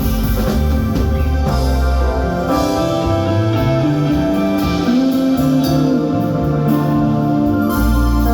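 Live band playing an instrumental passage of a slow soul ballad, with no singing: a moving bass line under sustained chords and a melody line.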